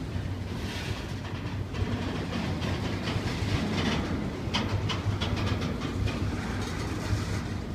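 Double-stack intermodal freight cars rolling slowly past at about 7 mph, with a steady low rumble from the wheels on the rails and scattered wheel clicks that bunch up around the middle.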